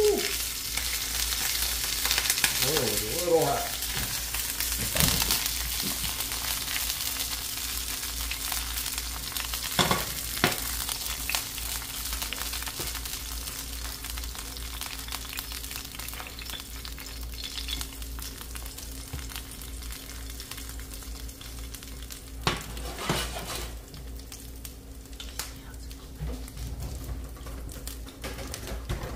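Grasshoppers frying in oil in a small non-stick pan on a glass-top electric stove: a steady sizzle that slowly dies down, with a few sharp knocks along the way.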